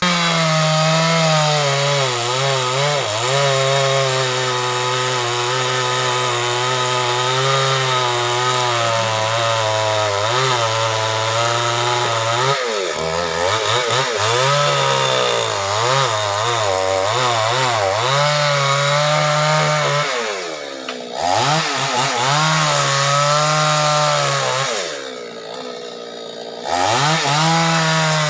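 Two-stroke chainsaw running at high revs while cutting wood, its engine note wavering up and down under load. A few times, and longest near the end, it eases off to a lower pitch before revving back up.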